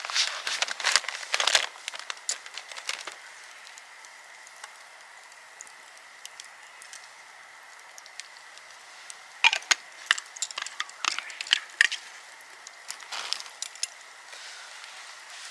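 Dry wood or twigs cracking and snapping in quick bursts of sharp clicks: one run at the start, then after several quiet seconds two more runs near the end.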